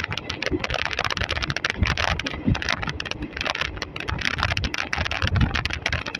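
Running noise of an Indian Railways express train at speed, heard from on board: a dense, irregular clatter of wheels on track and rattling coach fittings, with a few heavier low thumps and a rush of wind.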